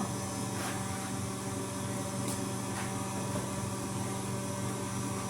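A steady low mechanical hum with several even tones, like a motor or engine running at a constant speed, with a few faint ticks.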